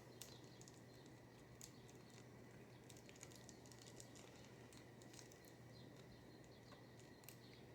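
Near silence with faint scattered clicks and scratches, fingernails picking at the plastic shrink-wrap on a CD case, over a low steady hum.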